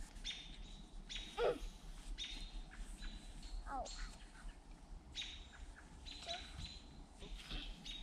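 Songbirds chirping over and over, short bright calls coming about once a second. A short sliding cry stands out about a second and a half in, and a weaker one comes near four seconds.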